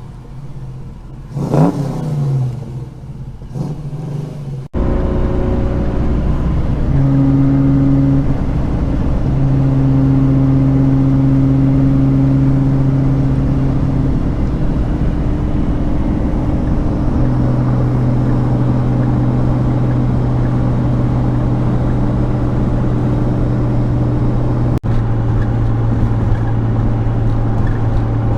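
Toyota Supra's turbocharged 7M-GTE straight-six driving at steady revs, a constant drone with road noise. A short rising rev comes in the first few seconds, and the steady run takes over abruptly about five seconds in.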